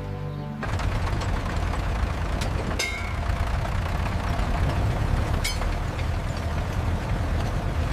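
A motor engine running steadily with a low rumble, with a few sharp clicks over it, starting about half a second in as the music cuts off.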